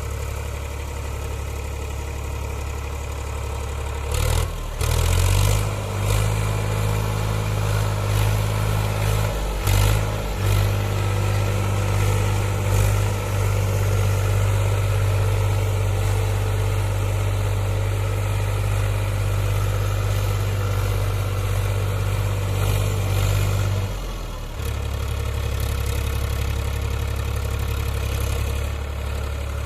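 Powertrac Euro 47 tractor's diesel engine running low and steady, then picking up revs about four seconds in with a few knocks, holding the higher speed, and dropping back down about twenty-four seconds in.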